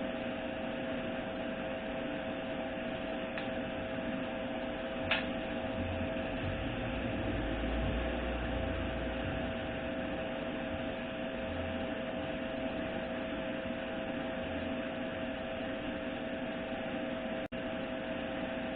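Steady background hum with two even tones over a hiss, with a single light click about five seconds in.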